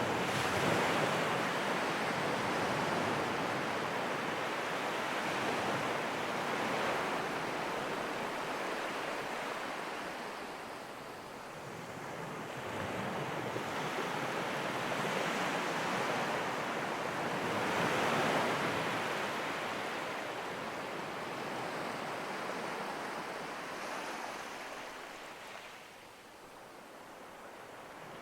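Ocean surf: waves breaking and washing ashore in a continuous rush that swells and fades over several seconds at a time.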